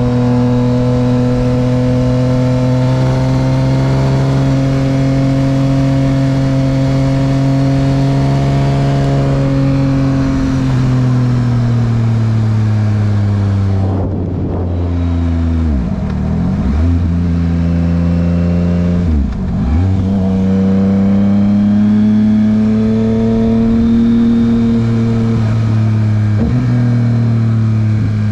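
Yamaha MT-09's 890 cc inline-three engine breathing through a Dominator HP3 aftermarket exhaust, under way at a steady engine speed. Past the halfway point the revs drop sharply and climb back twice in quick succession, as in fast gear changes, with a smaller dip near the end.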